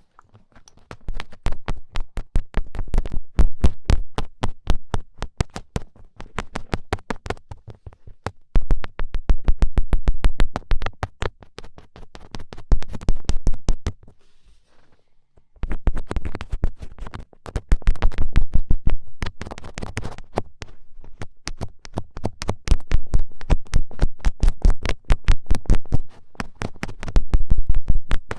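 Rapid fingertip poking taps, many a second, in long runs with a short break about halfway.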